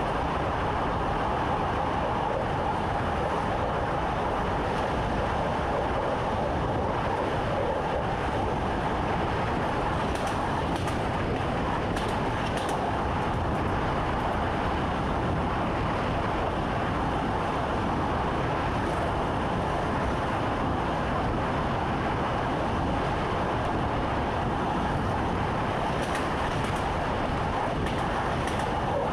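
Steady running noise of an electric train, heard from inside the driver's cab, with a few faint clicks.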